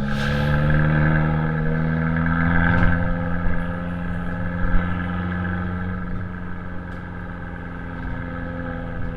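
Exhaust note of an Abarth 595C's 1.4-litre turbocharged four-cylinder through an Akrapovic exhaust while driving, held at fairly steady revs that ease slightly downward, with a few brief knocks about three and five seconds in.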